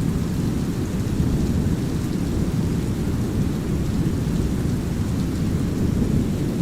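Steady brown noise, a deep even rumble, layered with light drizzling rain and a few faint raindrop ticks.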